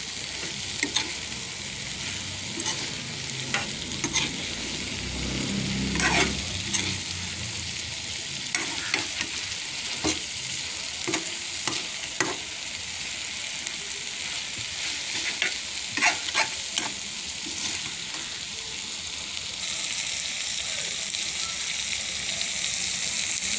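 Chicken in masala sizzling steadily in a frying pan while a spatula stirs it, scraping and knocking against the pan every second or two. The masala is being roasted down on a low flame until the ghee separates and rises to the top.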